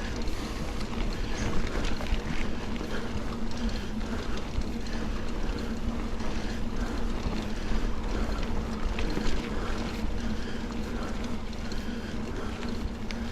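Mountain bike riding along a dirt double-track trail: steady wind rush over the microphone and rolling tyre noise, with a faint steady low hum underneath.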